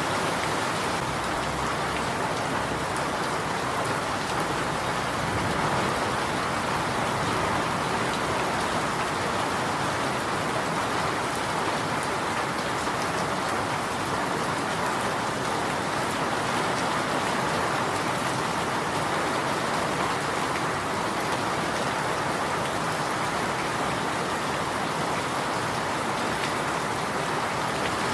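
Steady rain falling, an even, unbroken patter of drops on surfaces.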